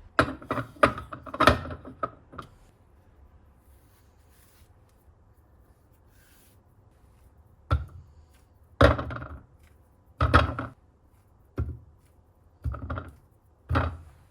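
A series of sharp knocks and thuds on a hard surface: a quick cluster of about seven in the first two seconds, then, after a pause, six single knocks about a second apart.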